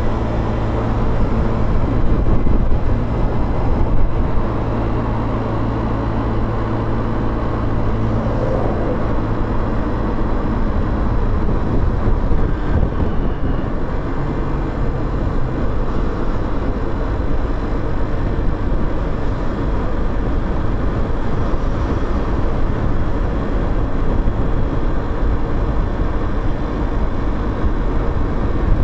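Motorcycle engine running as the bike is ridden, with steady road and wind noise picked up on board. The engine's low hum is strongest in the first eight seconds or so and then blends more into the road noise.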